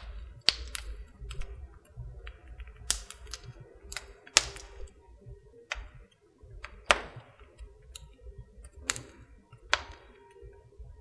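Wood fire crackling in a fireplace: irregular sharp pops, about a dozen, some with a short hiss trailing after, over a low steady hum.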